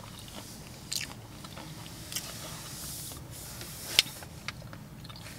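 Close-up chewing of a crunchy snack chip, with a few sharp crunches scattered through, the loudest about four seconds in.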